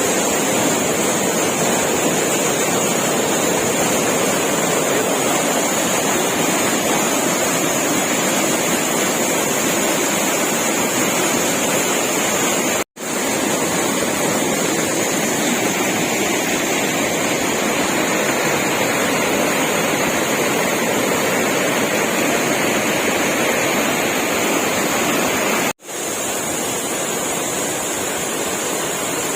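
Waterfall: a steady rush of falling water, cutting out for an instant twice, about halfway through and near the end.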